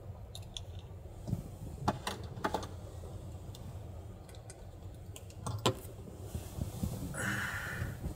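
Scattered light clicks and clatter, like small objects being handled, over a steady low rumble, with a short rustle near the end.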